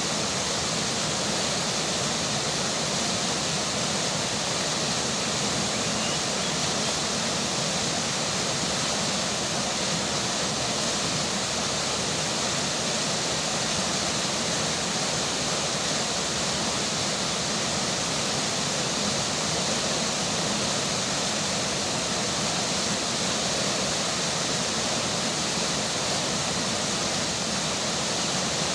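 Steady, unbroken rush of a flowing river with rainfall, an even hiss with no distinct drops or splashes standing out.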